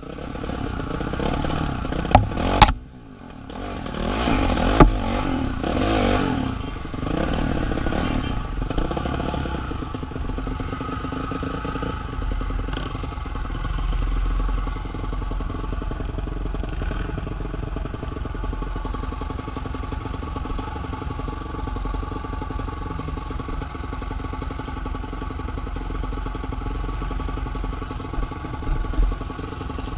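A motor vehicle's engine running steadily, with rattling and clatter. The sound cuts out abruptly twice in the first three seconds.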